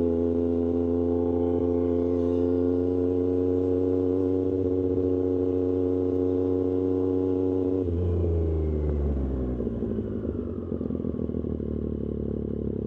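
Triumph Street Triple 765 RS's inline three-cylinder engine through an SC-Project exhaust, running at steady revs. About eight seconds in, the revs drop and it carries on lower and less evenly.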